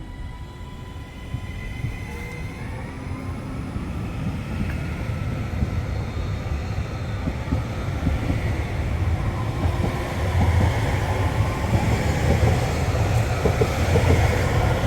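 A pair of coupled Northern Class 331 electric multiple units approaching, their rumble and rail noise growing steadily louder, with a thin high whine over it in the first few seconds.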